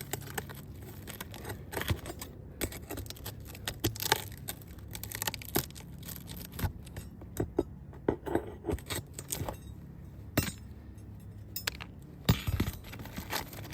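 Asphalt roof shingles being pried and worked loose by hand: irregular sharp clicks, snaps and scrapes as the brittle shingle and its nails are forced up from the decking.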